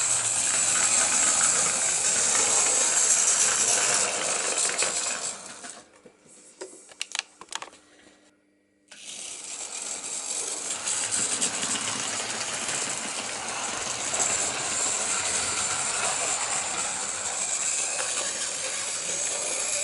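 OO gauge Mainline Class 2251 model locomotive running on the track, its small electric motor whirring and its wheels rattling on the rails. The running noise fades out about five seconds in, with a few sharp clicks, drops to silence, then starts again about nine seconds in.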